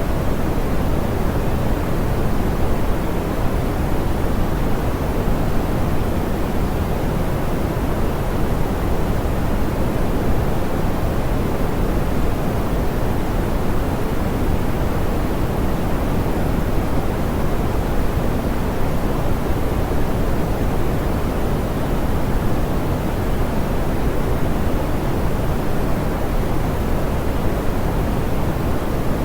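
Steady, soft pink noise: an even hiss, heavier in the low end and rolled off in the highs, with no change throughout.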